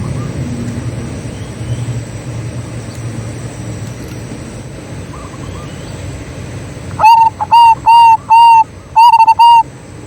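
Zebra dove cooing: about seven short, loud coo notes in two quick groups, starting about seven seconds in, over a low steady rumble.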